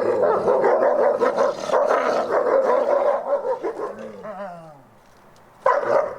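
Wolves in a noisy squabble: dense, overlapping barking, growling and yipping for the first three and a half seconds, then a falling whine, then one short loud bark-like call near the end.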